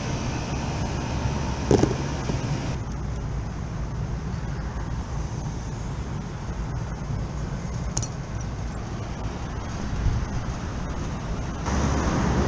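Steady low mechanical rumble and hum with a hiss over it, with a single knock about two seconds in. The hiss drops away about three seconds in and comes back near the end.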